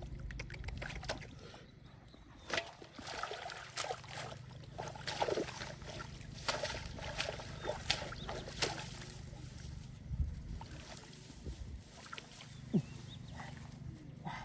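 Shallow muddy water splashing and sloshing in irregular bursts, with many scattered short slaps and splashes, as fish are groped for by hand.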